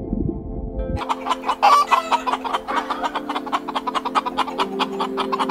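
Chickens clucking in a rapid, busy stream that starts suddenly about a second in, over soft background music with steady held notes.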